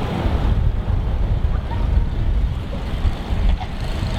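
Wind buffeting the camera's microphone during a snowstorm: a gusty low rumble that rises and falls.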